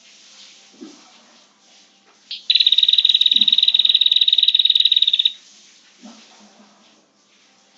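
Prinia (prenjak) giving a loud, very rapid chattering trill for about three seconds, led in by one sharp note and cutting off abruptly; a lure call for attracting prinias.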